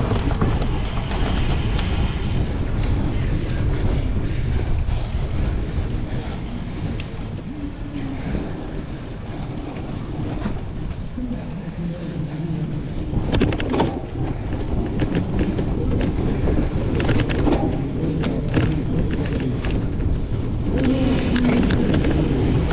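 Wind buffeting the microphone as a cyclocross bike is ridden at race pace, with the bike clattering over rough ground a few times in the middle.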